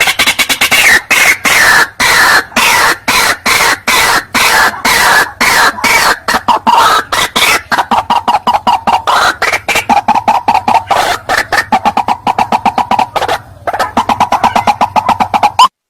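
White-breasted waterhen (ruak-ruak) calls: a loud, near-continuous run of short harsh croaking notes, several a second, with a brief break about 13 seconds in. It is a recorded lure call played back to draw wild waterhens in.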